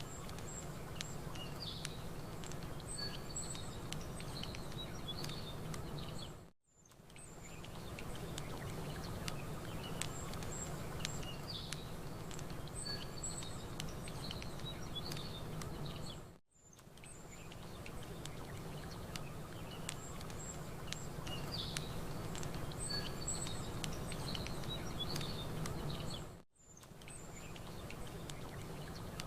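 Looped campfire and nature ambience: small birds chirping and tweeting high up over a steady low background hiss, with scattered faint crackles from the fire. The bed fades out and back in briefly about every ten seconds, repeating the same stretch.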